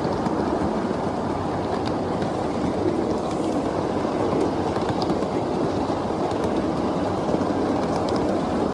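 Steady rumble and rattle of a 7½-inch gauge miniature railway riding car rolling along the track behind a live steam locomotive, heard from on board.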